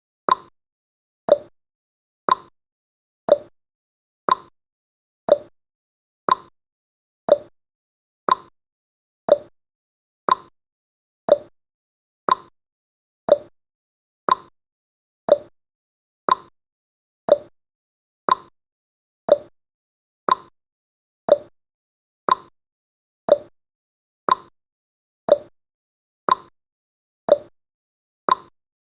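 Countdown timer's ticking sound effect: a short, sharp tick once a second, alternating between a higher and a lower pitch like a tick-tock.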